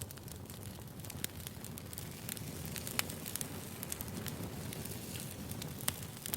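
Wood fire burning, crackling with irregular sharp pops and snaps over a steady low rumble.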